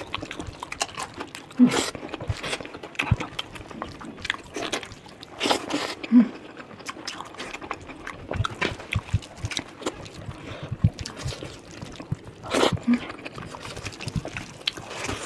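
A person eating curry: wet chewing, lip smacks and slurps, made of many small clicks with a few louder smacks.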